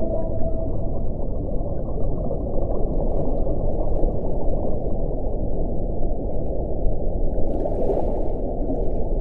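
Wind blowing steadily: a low, continuous rushing that swells and eases slightly, with faint whistling tones near the start.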